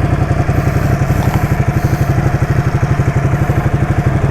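Ducati motorcycle engine idling steadily with an even, pulsing beat.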